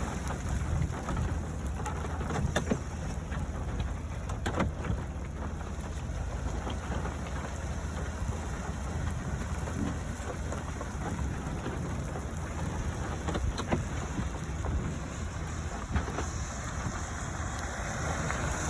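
Wind buffeting the microphone outdoors: a steady low rumble, with a few faint clicks.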